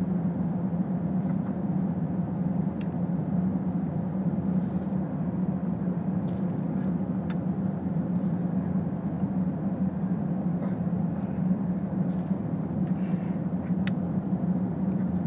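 Airliner jet engines running at low power before takeoff: a steady drone with a strong low hum and a few faint clicks and rattles.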